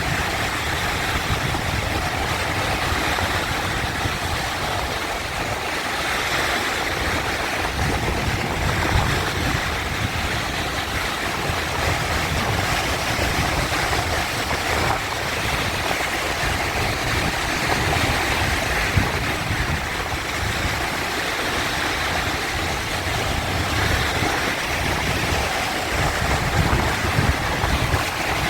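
Sea waves washing in and breaking: a steady surf noise over a low rumble, swelling and easing every several seconds.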